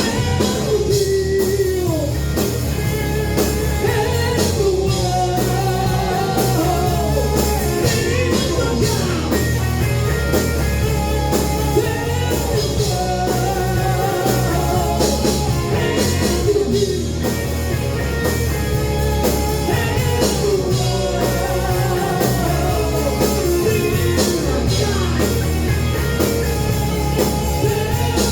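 A live rock band playing a heavy metal song: a singer over electric guitars, bass and drums.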